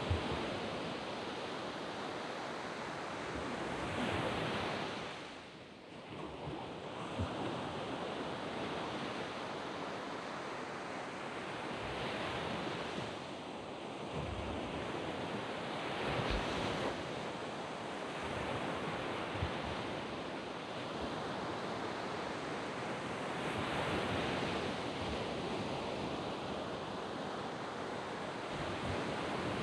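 Surf breaking and washing up a sandy beach, a continuous rush that swells as each wave comes in, with a brief lull about six seconds in.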